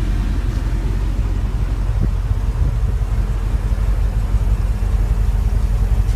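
Steady low engine hum and rumble from a running motor, with a faint tick about two seconds in.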